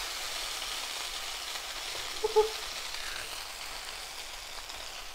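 Stir-fried noodles sizzling steadily in hot oil in a frying pan, with one brief louder sound a little after two seconds in.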